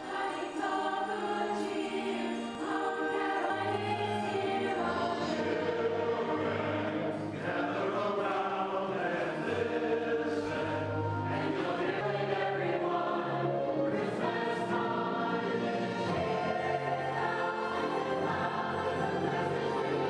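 A choir singing a Christmas piece in sustained, layered harmony, with low bass notes under the upper voices.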